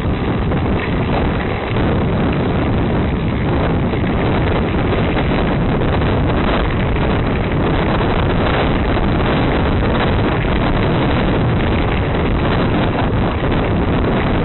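Steady, loud wind rush buffeting the camera microphone while riding a bicycle at speed.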